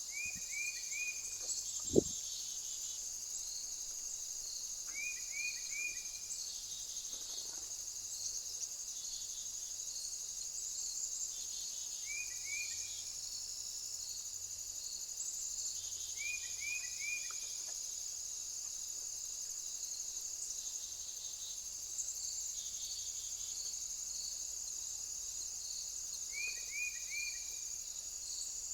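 Insects, crickets among them, chirping in a steady high trill. A short call of three or four quick falling notes repeats every few seconds, and there is one sharp click about two seconds in.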